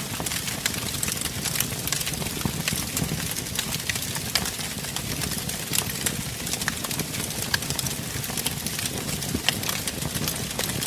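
Wood fire burning in a fireplace: a steady low rush of flames with frequent, irregular crackles and pops.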